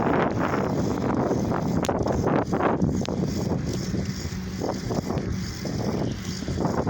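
Wind buffeting the microphone of a phone carried on a moving bicycle: a steady rumbling rush with irregular gusty swells.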